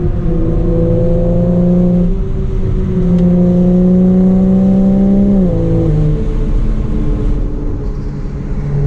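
Straight-piped BMW 335i's N55 turbocharged inline-six pulling hard under acceleration. The exhaust note climbs steadily, breaks briefly about two seconds in, climbs again, then falls away sharply about halfway through as the revs drop, and runs quieter near the end.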